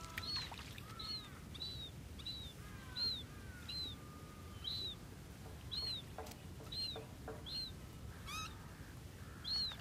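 A bird calling over and over: short high chirps that rise and fall, about one every half second to second, with softer lower twittering notes between them. A few faint clicks come about two thirds of the way through.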